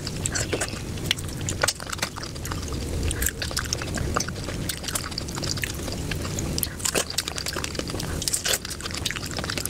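Close-miked wet chewing and mouth smacking of juicy fresh fruit, with many short, sticky clicks throughout.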